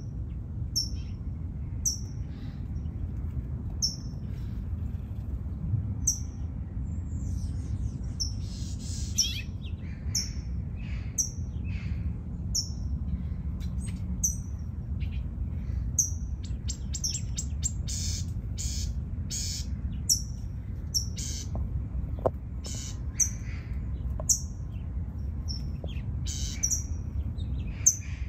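Small songbirds chirping: one repeats a short, high, falling chirp about once a second, with other chirps and calls in between, over a steady low rumble.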